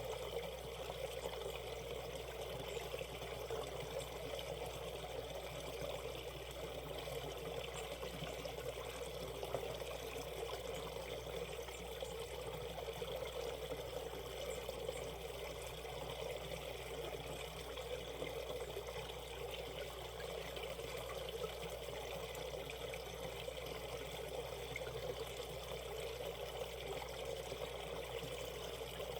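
Shallow valley stream trickling and burbling over stones, a steady unbroken water sound.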